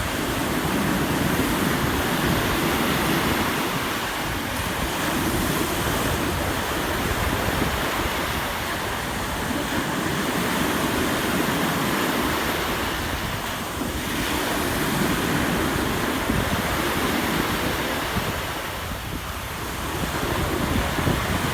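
Sea waves washing onto a beach, swelling and easing every few seconds, with wind buffeting the microphone.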